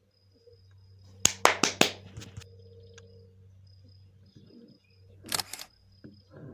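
Sharp clicks: a quick run of four about a second in, then a pair near the end, over a faint steady hum.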